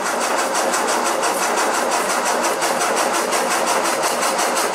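1961 Land Rover's freshly rebuilt four-cylinder petrol engine, on its first start with the ignition timing not yet set, going with a fast, even pulse.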